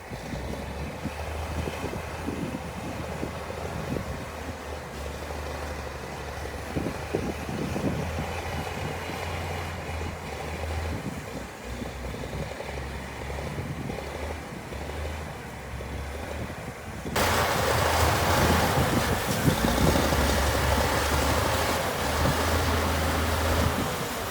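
Heavy construction machine's diesel engine running with a low, uneven rumble. About 17 seconds in, the sound cuts abruptly to a louder hiss of wind on the microphone, with the engine still underneath.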